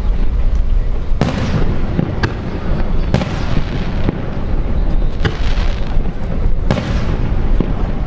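Aerial fireworks shells bursting overhead: several sharp bangs about a second apart, with a rolling rumble and crackle between them.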